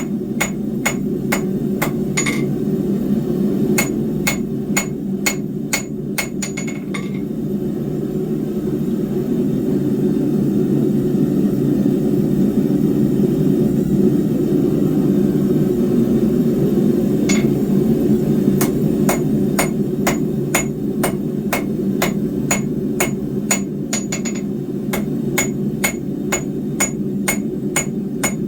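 Hammer blows on hot steel bar over an anvil, about two to three ringing strikes a second. They stop for about ten seconds partway through and then resume. A steady low rushing noise, typical of a running forge, goes on underneath.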